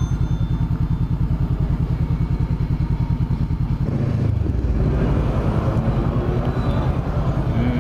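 Honda CBR500R parallel-twin engine running with an even low pulse, then revving up about four seconds in as the bike pulls away.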